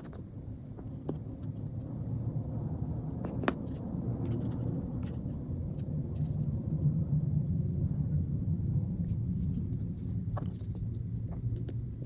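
A low rumble that swells to a peak about halfway through and eases off again, with scattered small clicks and taps of handwork at a bench.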